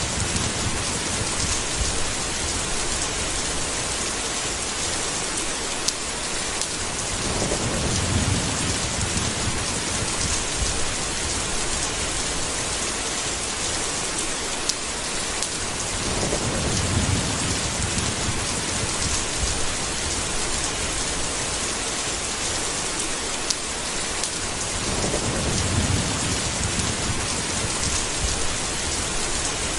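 Steady heavy rain with low rolling thunder rumbles returning about every eight or nine seconds, and a few single sharp drip-like ticks.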